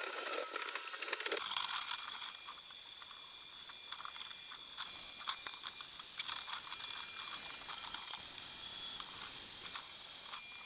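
Vacuum cleaner running with a steady hiss and a thin high whine, while grit and debris tick and rattle as they are sucked up.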